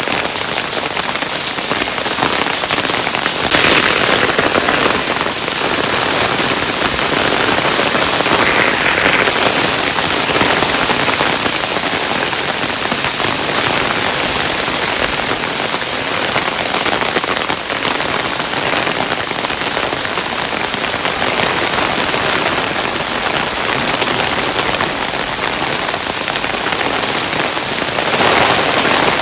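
Hail falling steadily, a dense hiss of countless small stones pattering on a surface, swelling briefly a few times.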